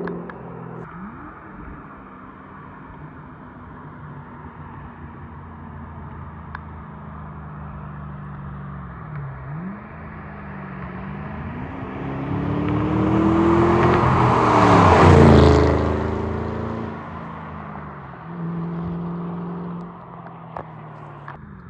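New Edge Mustang GT's 4.6-litre V8 through an SLP Loudmouth cat-back exhaust: running steadily, dipping in pitch about nine seconds in, then rising in pitch and getting much louder to a peak around fifteen seconds in before dropping back to a steadier note.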